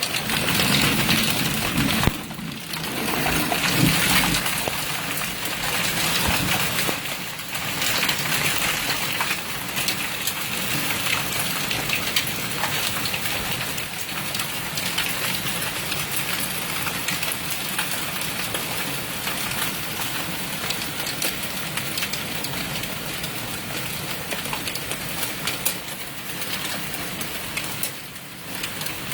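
Hailstorm: a dense patter of hailstones and rain hitting surfaces, surging louder a few times over the first several seconds, then settling into a steady downpour.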